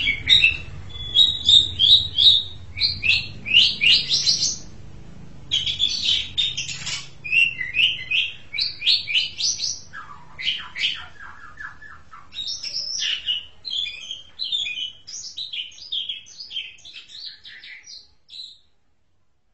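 Asian pied starling (jalak suren) singing a long, varied run of quick chirps and whistles with a short break about five seconds in; the song stops about eighteen seconds in.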